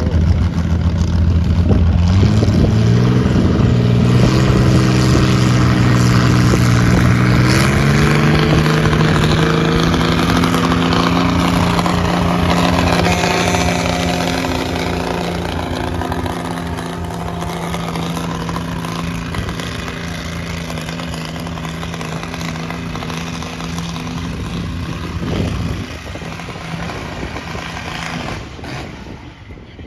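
Oliver tractor engine pulling a sled under full load: the revs climb over the first several seconds, then hold steady at high speed and fade away near the end as the pull finishes.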